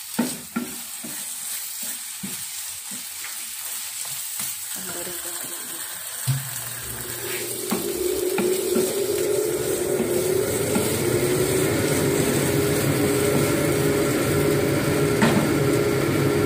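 Bagoong alamang (shrimp paste) sizzling in a frying pan as a wooden spatula stirs it, knocking against the pan several times in the first few seconds. About six seconds in, a steady mechanical hum starts and builds up under the sizzle.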